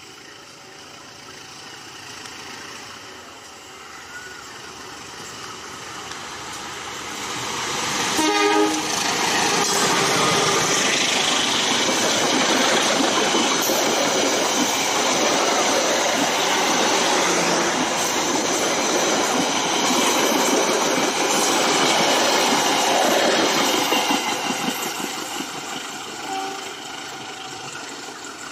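A diesel locomotive-hauled passenger train passing close by. Its horn gives a short toot about eight seconds in as the level rises sharply. Then the wheels run on the rails as the carriages go past for about fifteen seconds, fading as the train moves away.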